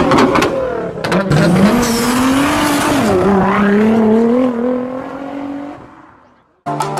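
A sports car's engine revving and holding high, its pitch wavering and slowly climbing, then fading away near the end. Sharp hits come in the first second and a half.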